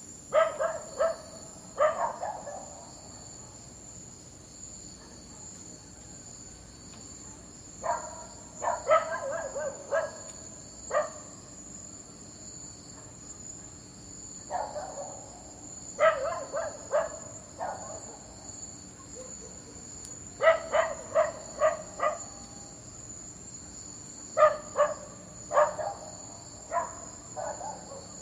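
A dog barking in short runs of several barks, about five runs with pauses of a few seconds between them, over a steady high-pitched background chirr.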